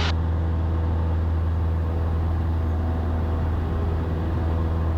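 Cessna 172's piston engine and propeller droning steadily at climb power, a constant low hum with no change in pitch or level.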